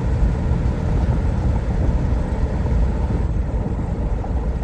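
Steady road and engine noise inside a moving car: an even low rumble of tyres on pavement at highway speed.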